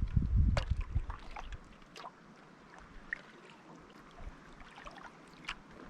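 Kayak paddle dipping and pulling through calm lake water, with drips and small splashes off the blades. A low rumble fills the first second or so, then only light trickling and scattered ticks of water.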